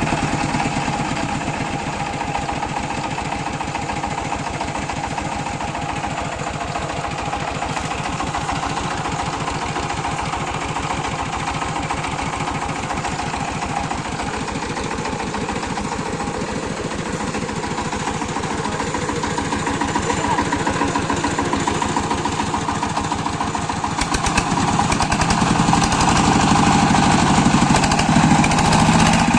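Power tiller engine running steadily with an even, rapid beat while it pulls a loaded trolley. It grows louder about two-thirds of the way in.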